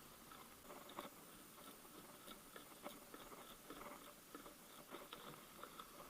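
Near silence with faint, scattered light clicks as the rubber intake hose between the air filter and the throttle body is worked off by hand.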